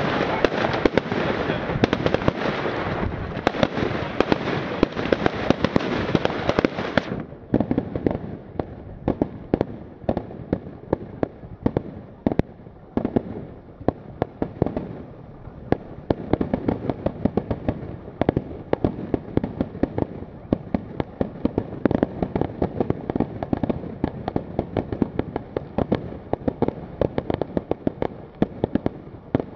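Firework display: a dense, loud barrage of bangs and crackle that cuts off abruptly about seven seconds in, followed by a rapid, continuous string of separate sharp bangs, several a second.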